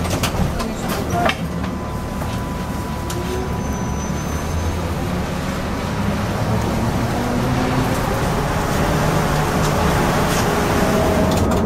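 Trolleybus running, with steady road and running noise, a few sharp clicks early on and a faint steady whine. It grows louder near the end, with a rising tone as it picks up speed.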